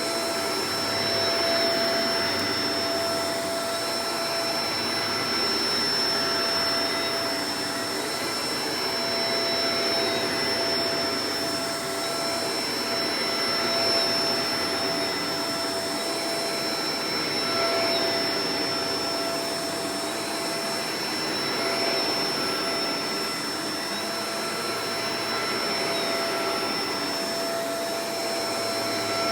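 Shark Professional Powered Lift-Away DLX (NV586) upright vacuum cleaner running steadily with a high motor whine, its loudness swelling and easing about every four seconds.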